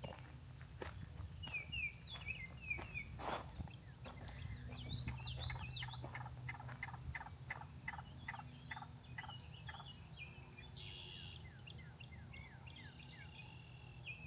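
Birds calling outdoors: many short chirps and quick trills, with a run of evenly spaced repeated notes through the middle. A steady high-pitched tone and a low rumble sit underneath throughout.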